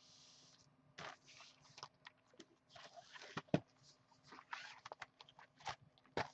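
Faint handling noise of sealed trading-card boxes on a table: a short hiss, then scattered rustles and light taps and clicks, the sharpest about three and a half seconds in.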